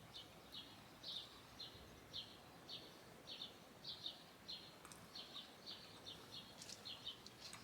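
A bird calling faintly, a short high chirp repeated about twice a second.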